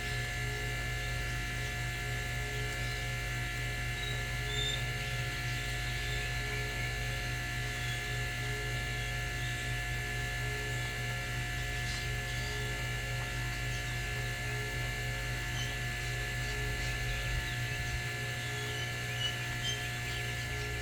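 A steady electrical hum with several constant high tones over it. The lowest part of the hum drops away near the end.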